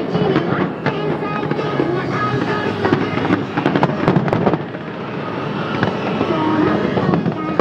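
Fireworks going off in quick succession: many sharp bangs and crackles over a continuous rumble of bursts, with music playing alongside.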